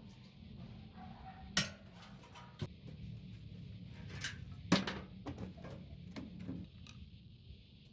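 Metal parts and tools clinking and knocking while a microwave oven is taken apart, with two louder knocks about a second and a half and nearly five seconds in, over a steady low hum.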